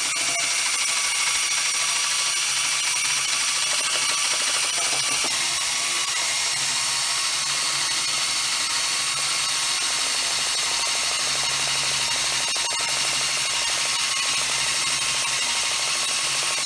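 DeWalt power drill running steadily with a high whine, scouring the bottom of a glass vase to roughen it so the epoxy will bond.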